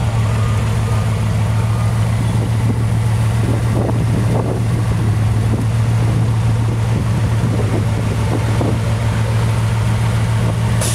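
Bugatti Veyron Grand Sport Vitesse's quad-turbo W16 engine idling, a steady low drone that holds an even pitch and level throughout.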